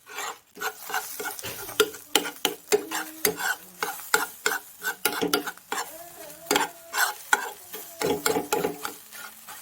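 A utensil stirring in a pot or pan, with many sharp irregular clinks and scrapes, several a second.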